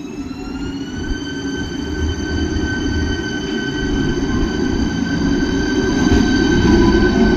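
Passenger train at a station: a high, even whine from its drive rises in pitch over about the first second and then holds steady, over a low rumble that grows louder.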